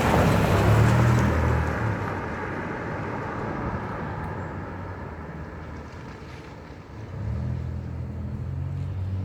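Road traffic: a car passes with engine and tyre noise that fades away over the first few seconds. About seven seconds in, another vehicle's low engine hum comes in and holds steady.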